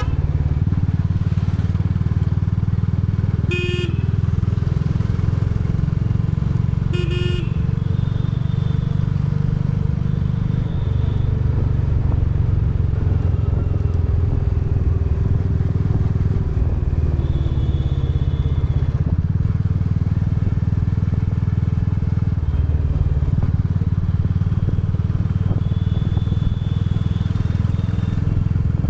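Royal Enfield Bullet 350's single-cylinder engine and exhaust running steadily under way. Two short horn toots come about four and seven seconds in.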